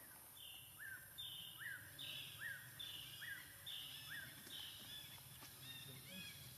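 A bird calling faintly in a quick repeated phrase: a high held note alternating with a lower note that rises sharply then levels off, about five times over, trailing into softer, broken notes near the end.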